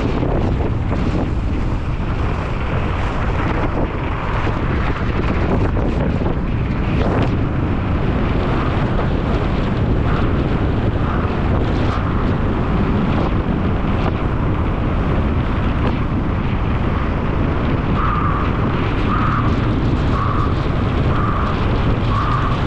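Heavy wind buffeting the microphone as a mountain bike races down glacier snow at high speed. Near the end comes a series of short, evenly spaced higher chirps, about one a second.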